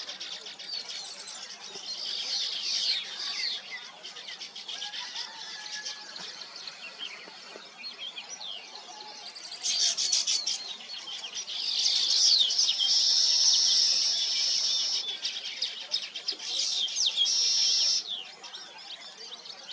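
Weaver birds chattering at their nests, a dense mix of overlapping chirps and buzzy notes. They get louder about halfway through and ease off just before the end.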